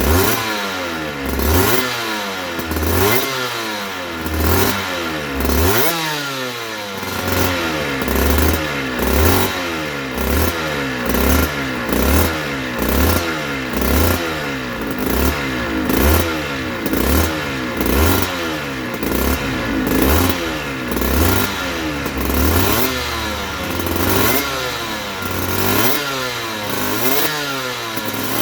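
Aprilia RS125's 125 cc two-stroke single engine being revved in quick repeated throttle blips, about one a second, the pitch rising and dropping back each time.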